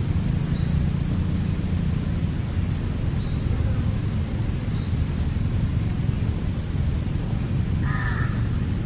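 A crow cawing: one harsh caw near the end, with fainter calls in the middle, over a steady low rumble.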